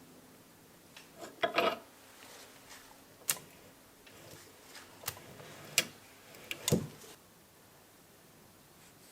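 Scattered sharp clicks and knocks of drill press parts and tools being handled, about six in the first seven seconds, with a short scraping rattle near the start.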